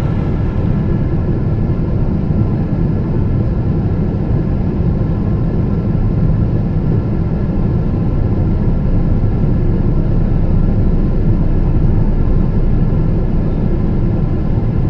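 Airliner cabin noise inside a Boeing 777-200ER on final approach: a steady, deep rumble of engines and rushing air, with a faint steady hum above it.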